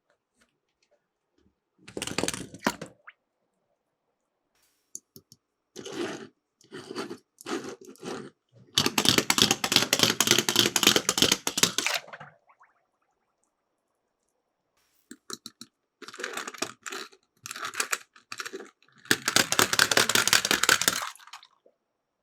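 Miniature toy cars rolling down a slope, rattling in several bursts of dense clicking with silence between, the longest and loudest about nine to twelve seconds in and again near the end.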